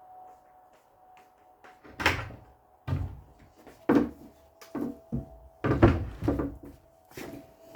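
A run of about eight irregular household knocks and thuds, as of a door being shut and things handled, starting about two seconds in.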